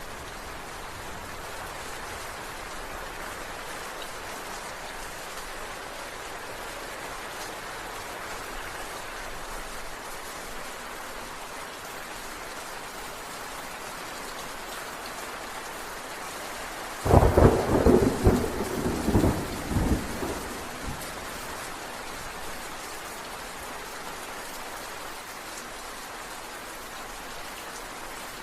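Steady rain falling, broken a little past the middle by a sudden clap of thunder that rumbles and fades over about four seconds.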